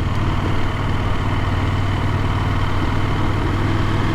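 KTM adventure motorcycle engine running at a steady pace on the road, with a steady rush of wind and road noise.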